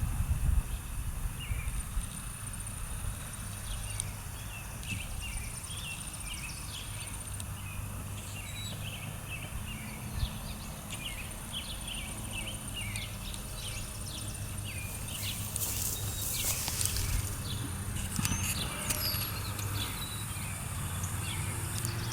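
Small birds chirping in many short, quick calls, over a steady low rumble. A brief rushing hiss comes about two-thirds of the way through.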